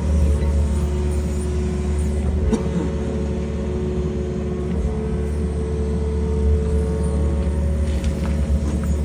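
Excavator's diesel engine running steadily, a low rumble with steady tones over it, and one sharp knock about two and a half seconds in.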